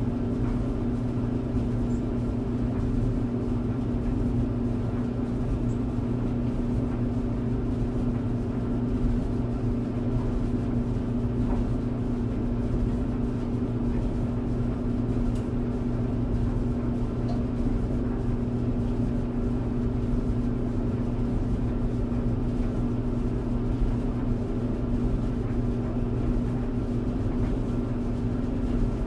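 Tumble dryer running steadily: an even hum from the motor and drum with a constant low drone, and a few faint ticks now and then.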